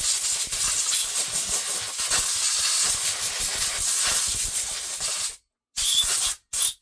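Compressed air from a blow-gun chuck on a pancake compressor blasting debris off a chainsaw. It gives a continuous loud hiss for about five seconds, then two short blasts near the end.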